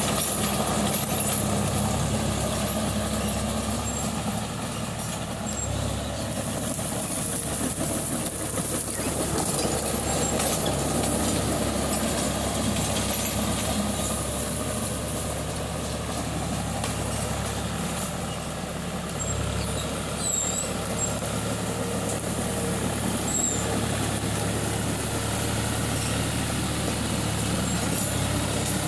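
Tractor engine running steadily, an even low hum with no change in pace.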